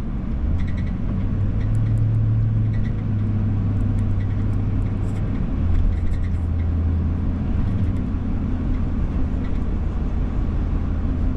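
Engine and road noise of a moving vehicle heard from inside the cab: a steady low drone that drops in pitch about halfway through, with faint light clicks now and then.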